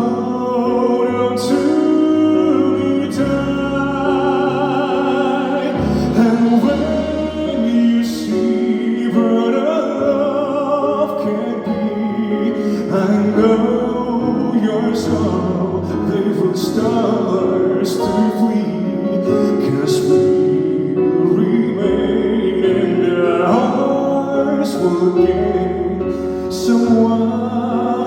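Live pop ballad performance: sustained sung notes with wide vibrato over a full band or backing-track accompaniment, with a sharp percussion hit every second or two.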